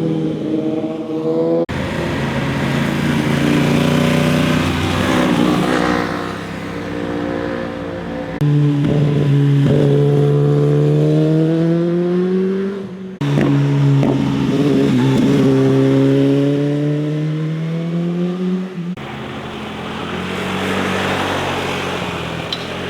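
Motorcycle engines revving up as the bikes accelerate, the pitch rising over several seconds. The sound changes abruptly three times, at the cuts between passes.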